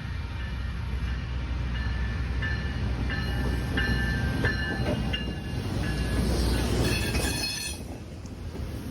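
MBTA GenSet switcher locomotive running past with a steady low engine rumble, with short high-pitched squeals from about two seconds in and a denser cluster of high tones near the end, after which the rumble falls away.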